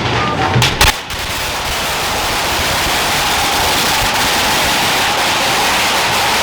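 Firecrackers going off in the street: two sharp bangs a little under a second in, then a dense, continuous rapid crackle, like a long string of bangers firing.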